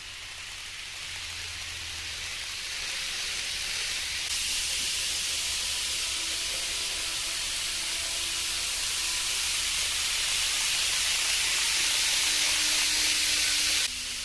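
N-gauge model train running on the track, a hissing rush of wheels and motor that grows louder as it approaches, with a faint whine underneath. It cuts off suddenly near the end.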